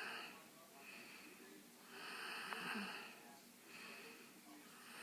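Faint breath noise from a person breathing close to a microphone: soft hissy breaths, alternating stronger and weaker, about one every second or so.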